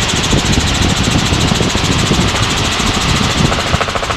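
Helicopter in flight heard from inside the cabin: steady engine and rotor noise with a fast, even pulsing from the blades.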